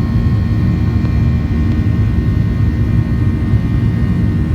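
Airliner's jet engines heard from inside the passenger cabin during take-off: a loud, steady low rumble with a few faint steady high tones over it.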